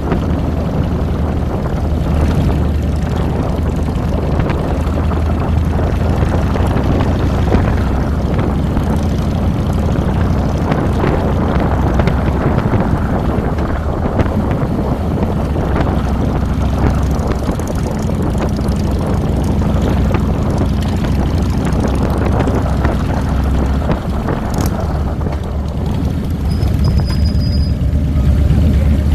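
2007 Harley-Davidson Fat Boy's air-cooled Twin Cam 96 V-twin engine running steadily under way, a deep even drone.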